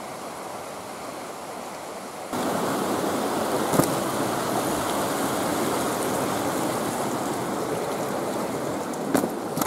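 Steady rushing of a mountain stream, which jumps louder a little over two seconds in, with a few short knocks over it.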